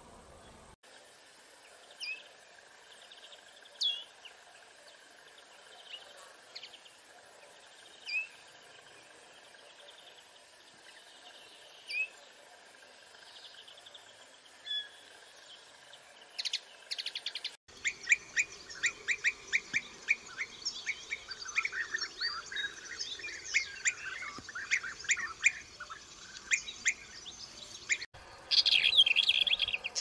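Songbirds calling: first single short call notes about every two seconds, then a busy run of chirps and twittering from several birds, ending in a short loud burst of song.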